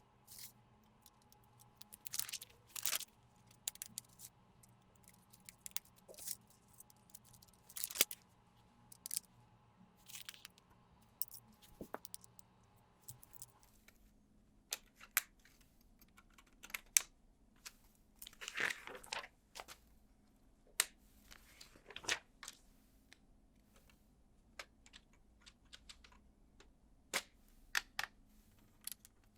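LEGO Technic plastic parts being handled and clicked together: irregular sharp clicks and snaps, with a couple of longer rustling scrapes about two-thirds of the way through.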